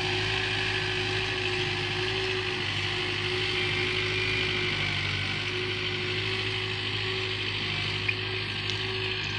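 A machine running steadily: a continuous mechanical rattle with a held mid-pitched whine and a low hum.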